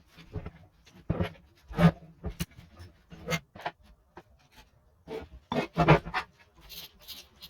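Irregular knocks, clinks and scrapes of hand work on motorcycle engine parts, a dozen or so short strokes at uneven spacing, loudest about two and six seconds in.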